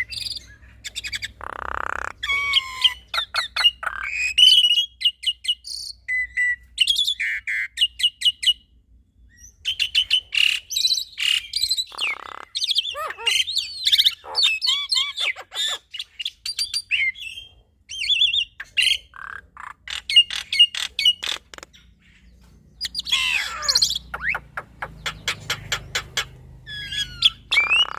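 Black-winged myna and Javan myna singing: a varied run of whistled notes and glides, rapid strings of short ticking notes, and a few harsh squawks, with a couple of brief pauses.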